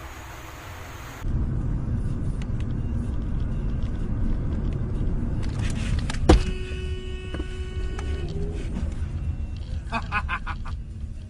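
Steady low rumble of a moving vehicle's road noise, picked up from about a second in. About six seconds in, one sharp crash impact is the loudest sound, followed by a steady ringing tone lasting about a second and a half.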